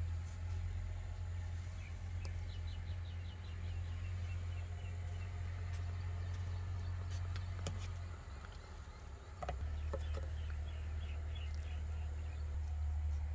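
Bird chirping in two quick runs of short, evenly spaced high notes over a steady low hum. A few soft clicks come in the middle as a kitchen knife cuts through melon flesh.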